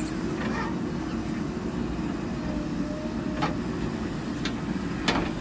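Heavy diesel machinery running steadily with a low rumble, with a few sharp clicks or knocks in the second half.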